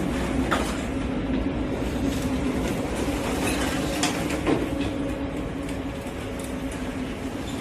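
Steady mechanical drone with a low hum, with scattered clicks and knocks over it.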